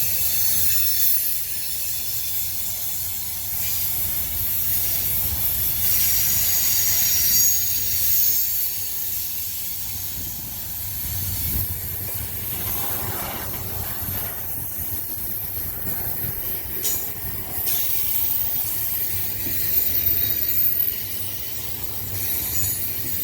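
Freight cars of a heavy BNSF manifest train rolling slowly past on a mountain grade: a steady low rumble of wheels on rail, with a high hiss and wheel squeal from the curve at times.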